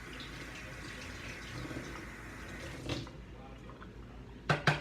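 Tap water running as the failed slime is washed out, shutting off about three seconds in. A couple of short, sharp sounds follow near the end.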